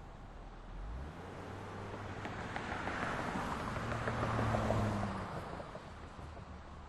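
A vehicle passing on a city street: engine hum and tyre noise build to a peak about four and a half seconds in, then fade away.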